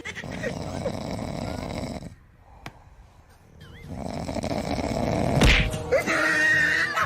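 Snoring: a long noisy breath, a pause of about two seconds, then another breath building up.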